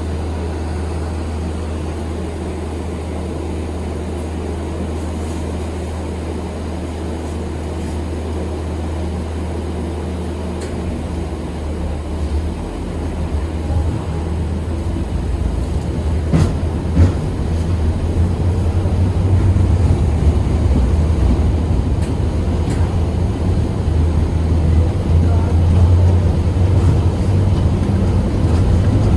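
KTM-8KM tram running, heard from inside the car: a steady low hum that, from about eleven seconds in, grows into a louder, rougher rumble, with a couple of sharp knocks around sixteen seconds.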